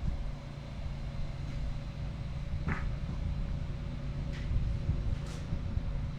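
A motor running steadily with a low rumble and a constant hum, with a few short clicks in the second half.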